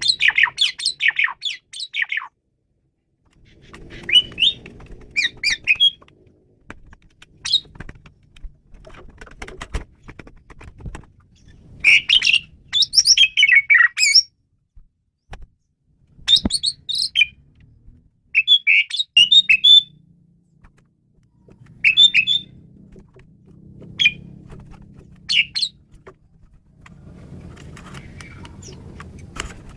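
Asian pied starling (jalak suren) singing: short bursts of fast, varied chattering and whistled notes, repeated every couple of seconds with brief pauses between phrases.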